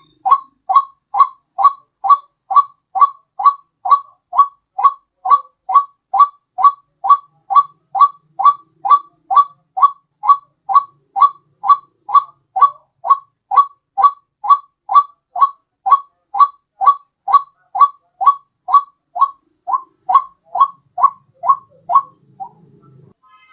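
White-breasted waterhen (ruak-ruak) call played as a bird-trapping lure: one short rising note repeated evenly about twice a second. It breaks off near the end.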